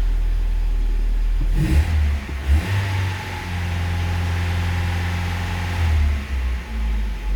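Car engine idling, then revved about one and a half seconds in and held at raised revs for several seconds before dropping back to idle. The engine is warming up on petrol after a start, before the LPG system switches over to gas.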